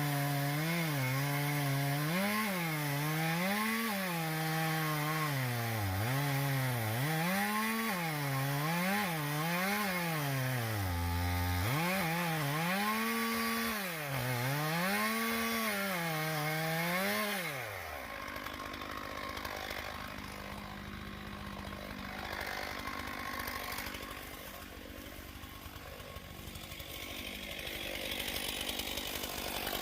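Chainsaw cutting oak, its engine pitch dipping and rising again and again as the chain loads up in the wood and frees. About eighteen seconds in the saw's note stops, leaving a quieter, rougher mechanical noise with a faint steady hum.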